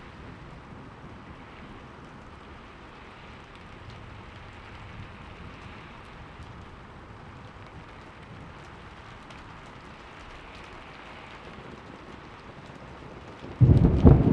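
Steady rain falling, with a sudden loud thunderclap breaking in near the end, its rumble strongest at the low end.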